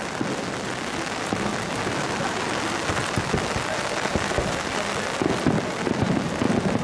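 Heavy rain hitting an umbrella held over the microphone, a loud, steady dense clatter of drops. Low booms of distant fireworks shells sound underneath, stronger from about four seconds in.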